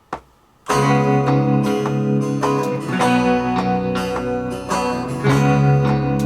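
Guitar playing a slower take of a song, strumming chords that ring on, starting about a second in after a few short, evenly spaced clicks.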